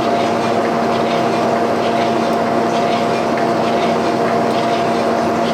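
Boring bar drive running steadily, an even machine hum with a low and a higher steady tone over a noisy whir.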